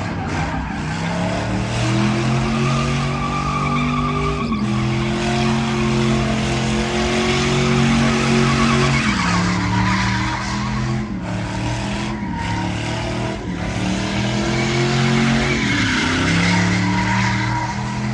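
Truck engine held at high revs, its pitch holding and then dropping sharply every few seconds, with tyres squealing and skidding on pavement: a burnout.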